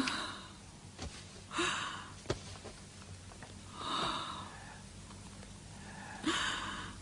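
A person's quiet breathy sniffs and gasps, four short breaths a couple of seconds apart, with a faint click near the middle.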